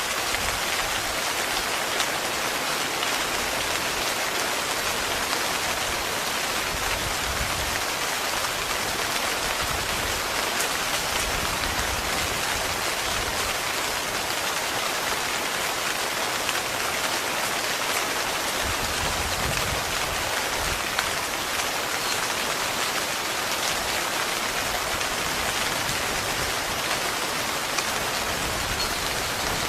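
Heavy rain falling steadily on a tent, with a few single louder drop hits.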